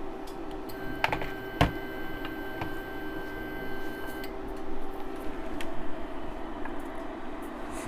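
Food crackling and ticking as it sizzles in a hot pan, over a steady hum, with a couple of sharp clicks about a second and a half in.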